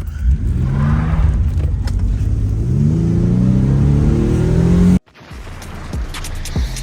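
Car engine accelerating, its pitch climbing twice: briefly at first, then in a longer steady rise. About five seconds in it cuts off abruptly to a quieter, steady low rumble.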